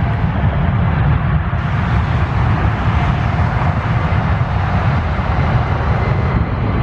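Jet engines of an Airbus A321 airliner running steadily, heard under heavy wind rumble on the microphone.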